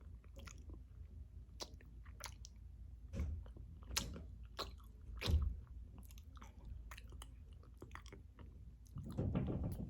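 Close-mic chewing and biting: a person eating a chicken and lettuce bowl, with soft wet mouth clicks and a few louder bites about three, four and five and a half seconds in. The chicken is tough to chew.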